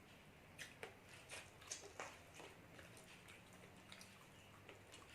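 Faint eating sounds: a string of soft clicks and crunches from chewing and utensils, most of them in the first two and a half seconds, with one more near the end.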